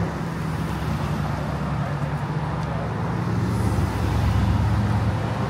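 Car engines running at low speed close by, a steady low drone that swells a little about halfway through as a car comes nearer.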